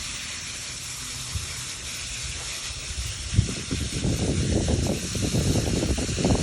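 Garden hose spray nozzle hissing steadily as water jets onto a potted root ball to wash the potting soil out. About halfway in, heavier spattering and crackling join in as the spray works into the soil and roots.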